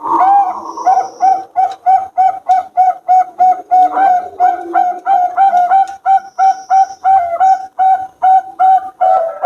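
Zebra dove (perkutut) of the Bangkok line cooing: a fast, steady string of short, rounded notes at about three a second.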